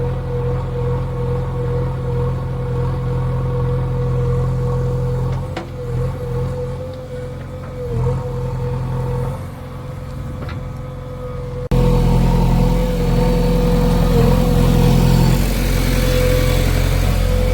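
Diesel engine of heavy machinery running steadily, with a steady whine over it. About twelve seconds in, the sound cuts abruptly to a louder, busier engine sound.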